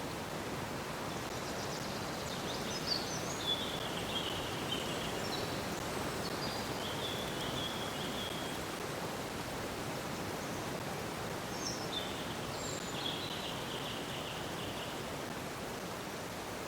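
Water flowing steadily, a stream-like rush. Small birds chirp over it in short spells, about a second in, around six seconds in, and again around twelve to fifteen seconds in.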